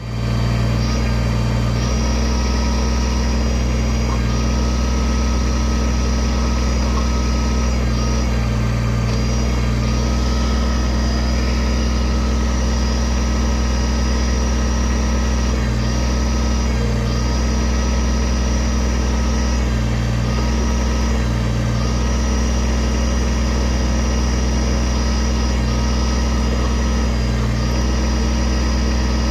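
Kubota tractor's diesel engine running steadily while the backhoe is worked, with a high whine over the engine note. The engine note and whine dip briefly every few seconds as the hydraulics take load from the boom and bucket moves.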